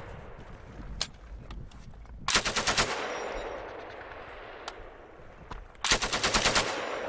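M240 machine gun firing two short bursts of about eight rounds each, roughly three and a half seconds apart, at a sustained rate, with a rolling echo after each burst. Single shots sound between the bursts.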